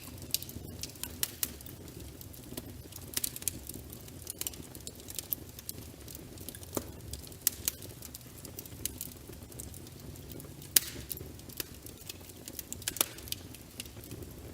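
Wood fire crackling in a fireplace: irregular sharp pops and snaps over a low steady rumble of flames, with one louder pop about eleven seconds in.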